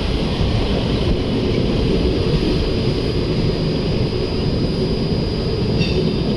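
Steady rumble of a moving passenger train heard from on board, with a faint steady high whine above it.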